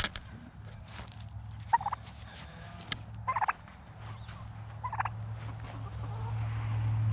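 Domestic turkeys gobbling in three short bursts a second and a half apart, with scattered light clicks and a low steady hum beneath that grows louder near the end.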